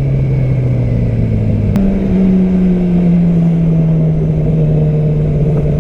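Yamaha R6's inline-four engine running while the bike is ridden. About two seconds in there is a short click and the engine note steps up, then it slowly falls off again.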